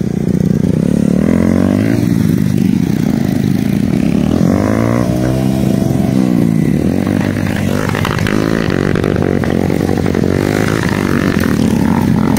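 Bajaj Pulsar motorcycle's single-cylinder engine revving up and down as the rider spins the rear wheel in loose sand and gravel, drifting in circles. The pitch rises and falls with the throttle, with a big swell near the middle.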